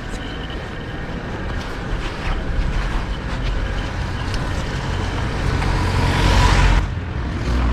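Street traffic heard from a moving bicycle in the city, a steady rumble of road noise. A vehicle passes close and builds to a loud peak about six seconds in, then drops away sharply.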